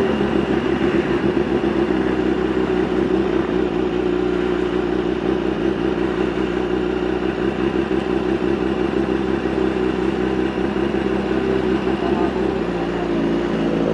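Sport motorcycle engine running steadily at an even speed, its pitch holding almost level.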